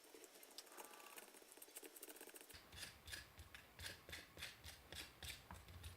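A hand scraper peeling chemically softened paint off an old grinder's metal housing: a faint, quick run of short scraping strokes that starts about two and a half seconds in.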